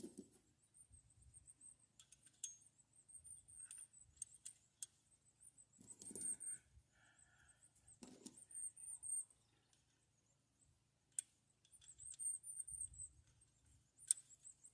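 Faint scattered clicks and light metallic clinks with a few soft bumps: rocker arms and nuts being fitted by hand onto the studs of a Ford V8's cylinder heads.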